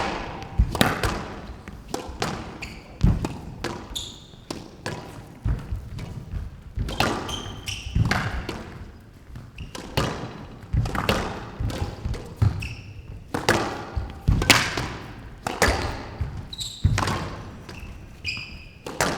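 A long squash rally: the ball cracks off rackets and the walls in an irregular string of sharp hits, about one every half-second to second, with short high squeaks of court shoes on the wooden floor between some of them.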